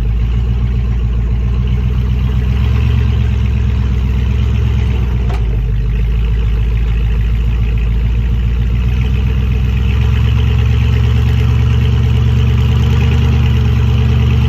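Rock crawler's engine running steadily, a low even rumble that gets slightly louder about ten seconds in.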